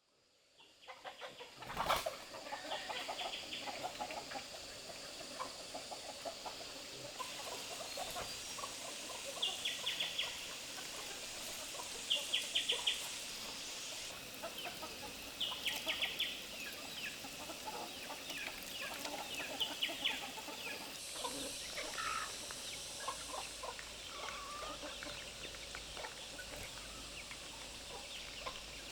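Farm poultry calling: short clusters of quick, high calls every few seconds, with scattered lower calls between them, over a steady background hiss.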